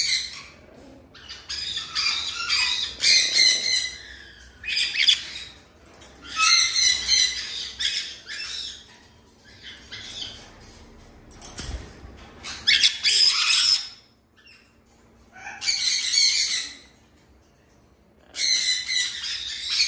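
Parrots squawking in repeated harsh bursts of a second or so, with short pauses between the calls.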